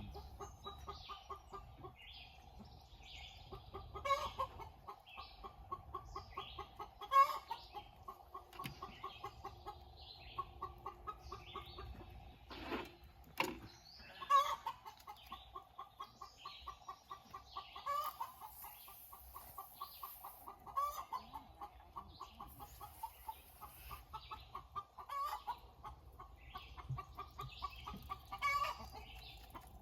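Chickens clucking continuously in fast runs of short calls, with higher chirps over them. A sharp knock about 13 seconds in.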